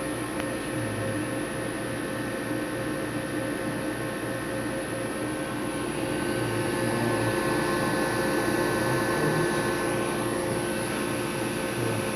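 Electric motor driven by a Magnetek HPV900 elevator drive, running steadily: a hum with several constant tones that gets slightly louder about halfway through.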